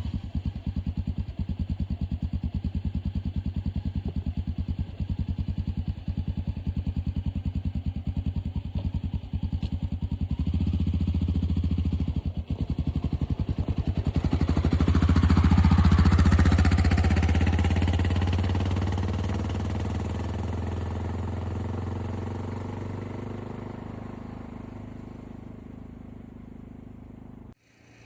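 Honda XR650L single-cylinder dual-sport motorcycle engine idling with an even thumping beat. About ten seconds in it grows louder, peaks a few seconds later as the bike pulls away, then fades slowly as it rides off.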